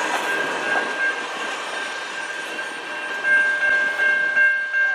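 Loaded potash covered hopper cars at the tail of a freight train rolling over a level crossing, with the crossing's warning bell ringing. About three seconds in the last car clears, the rolling noise drops and the bell's even ringing takes over.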